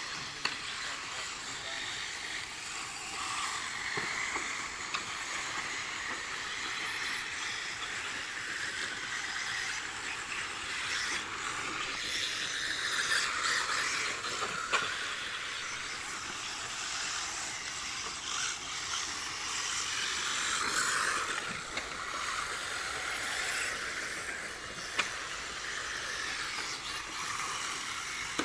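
1/10-scale RC rally cars racing on a dirt track: a steady, hissing motor-and-tyre noise that swells and falls as the cars accelerate and pass, with a few sharp clicks of stones or contacts.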